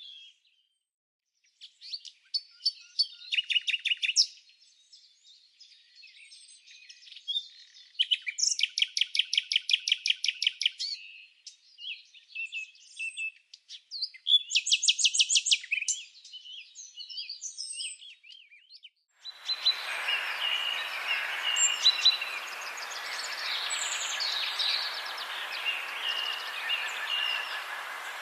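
Forest songbirds singing: separate trilled phrases of rapid repeated notes with pauses between them. About two-thirds of the way through, the sound changes abruptly to a denser chorus of many birds over a steady hiss.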